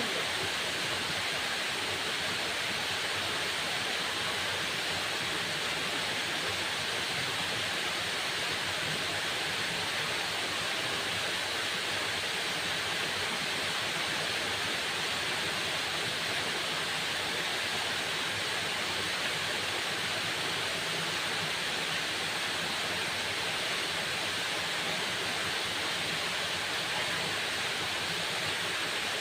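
Waterfall: falling water rushing in a steady, even hiss, brightest in the upper range, with no breaks or changes.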